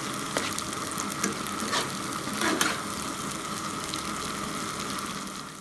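Tilapia frying in hot oil: a steady sizzle scattered with crackles, with a few louder pops about two and two and a half seconds in. It fades out at the very end.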